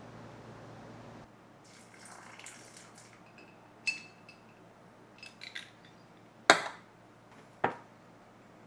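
Kitchenware being handled: a few sharp clinks and knocks, one with a brief glassy ring about four seconds in, the loudest about six and a half seconds in.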